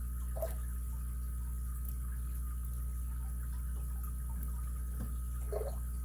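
Faint scratching and light clicks of a lock pick working the pins inside an ABUS 83CS/55 padlock, with two slightly louder soft taps, about half a second in and near the end, over a steady low hum.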